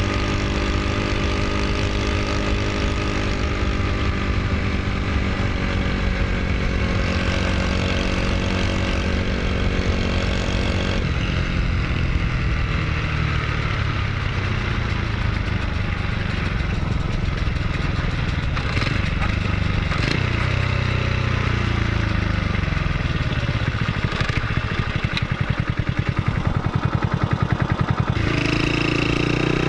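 Honda Super Cub's single-cylinder four-stroke engine running. Its speed holds steady for about ten seconds, then falls and rises, pulsing for a while, and picks up again near the end.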